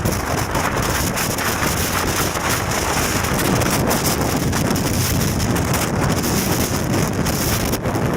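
Strong typhoon wind buffeting the microphone: a loud, continuous rushing noise with rough, gusty flutter.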